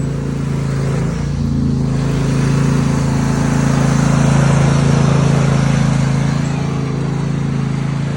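Pulling tractor's engine running steadily at an even pitch, growing louder toward the middle and easing off a little near the end.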